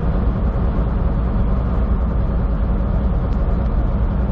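Semi truck cruising on the highway, heard from inside the cab: a steady low engine drone mixed with road noise.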